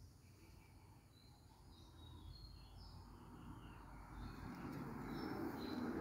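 Faint chirps of small birds, short high notes scattered through, with a broad noise that grows louder in the second half.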